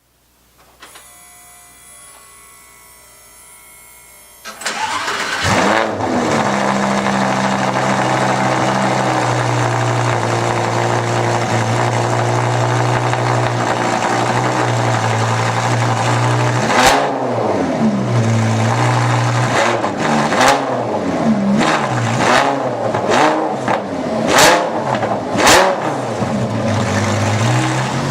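Lamborghini Gallardo Superleggera's V10 with a Tubi Style exhaust starting about four to five seconds in with a flare of revs, then idling steadily. From about two-thirds of the way through it is blipped several times, with sharp cracks from the exhaust on some of the blips.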